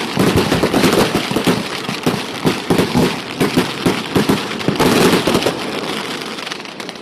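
Fireworks going off in rapid, irregular succession: many sharp bangs and crackles, several a second, thinning out near the end.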